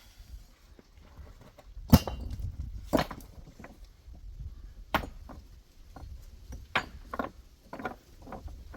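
A series of irregular sharp knocks or clacks, about six spread over several seconds, the loudest about two seconds in, over a low steady rumble.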